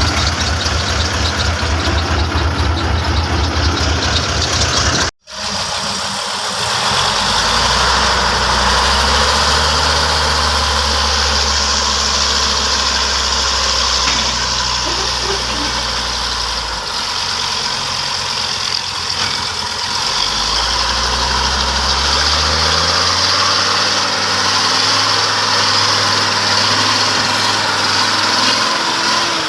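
Heavy diesel engine of a logging truck running at idle, cut off abruptly about five seconds in; afterwards the engine revs up and holds, drops back, then revs up again, with a steady hiss over it.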